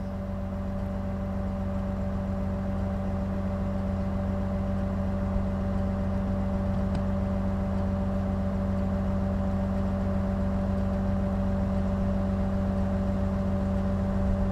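Rollback tow truck running steadily while its winch pulls a pickup in on a synthetic rope: a constant engine hum with a steady whine, rising slightly over the first couple of seconds and then holding even.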